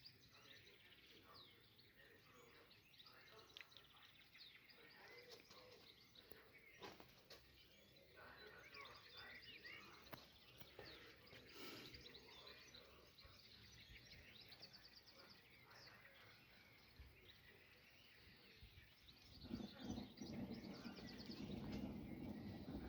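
Faint outdoor birdsong, many short chirps from several birds. Near the end a low, steady noise swells up and grows louder.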